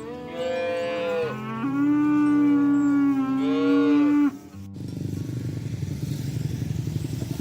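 A cow moos, one long low call of about four seconds with a rise and fall in tone at its start and end, which cuts off abruptly. A steady low rumbling noise follows.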